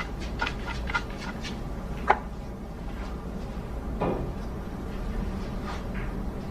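Billiard balls clicking: a quick run of light clicks, then a sharp, ringing click about two seconds in, a duller knock around four seconds and a few faint clicks near the end, over a low steady room hum.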